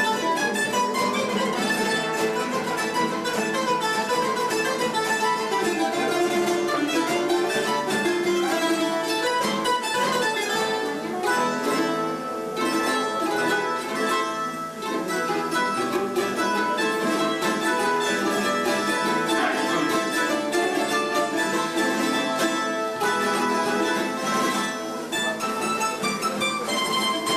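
A plucked-string trio of bandurria, laúd and guitar playing a Cádiz carnival chorus tune, with quick bright melody notes over guitar chords.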